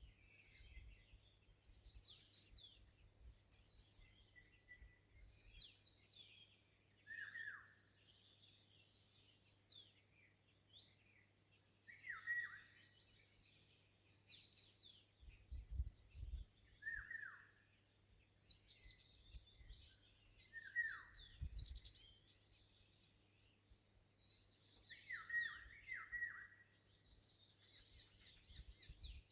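Several wild songbirds singing and calling together, with many short chirps and trills, while one bird repeats a short phrase that falls in pitch every four or five seconds.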